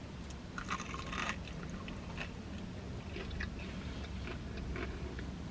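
Close mouth sounds of a person biting and chewing a piece of breaded fried chicken: a brief crackle about a second in, then small wet clicks of chewing, over a low steady hum.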